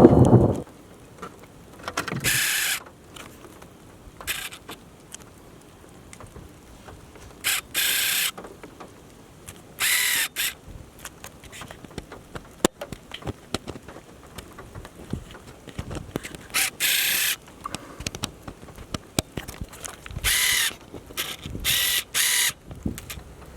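Close thunder dying away in the first half-second, then a lull broken every few seconds by short hissing bursts, and a new thunderclap starting right at the end.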